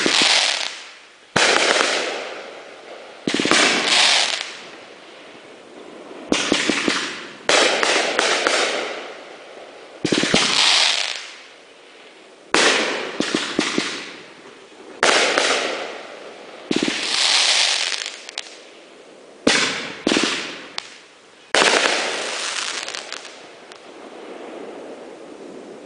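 Winda's Most Wanted 500 gram fan cake firing, roughly one shot every one and a half to two seconds. Each shot is a sharp bang followed by a fading crackle from its crackling mines and breaking dahlias. The last shot's crackle trails off near the end.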